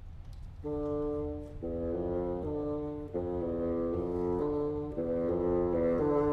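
Contemporary chamber music for solo bassoon and small ensemble: after a hushed start, held wind notes come in about half a second in and move to new pitches every second or two, growing gradually louder.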